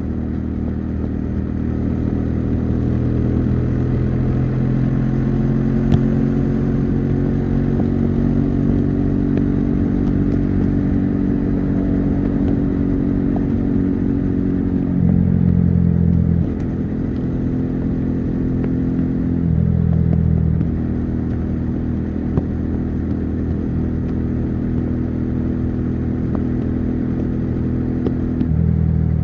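Bajaj Dominar 400's single-cylinder engine and exhaust running at highway speed, its note climbing slowly under throttle. There are short, louder, deeper stretches about halfway through, again a few seconds later, and near the end.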